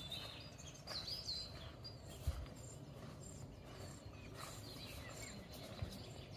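Small songbirds chirping and twittering over a steady outdoor hush. Two soft low thumps, about two and six seconds in, are the loudest moments.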